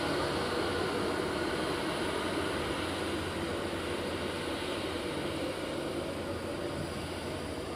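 Avanti West Coast Class 390 Pendolino electric train running past on the track, a steady rumble and low hum that fades slowly as it goes.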